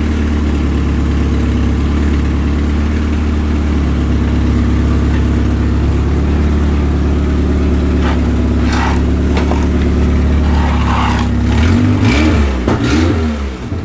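Toyota AE86 Corolla four-cylinder engine running loud and steady with a snapped header and no exhaust fitted. A few short sharp noises come a little past halfway, and the engine note rises and falls near the end.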